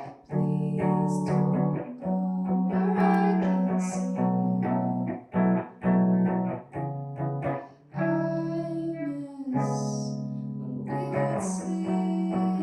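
A live song: a male singer-songwriter singing over his own guitar accompaniment.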